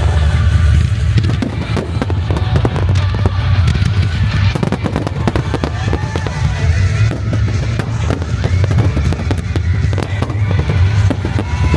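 A dense fireworks display: many shell bursts and crackles in rapid succession over a continuous low rumble, with music playing along.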